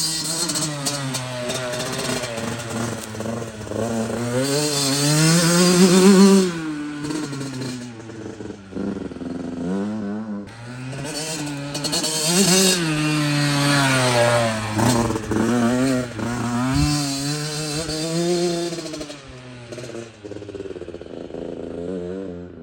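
Yamaha YZ85 two-stroke dirt bike engine being ridden, revving up and dropping back again and again, loudest about six seconds in.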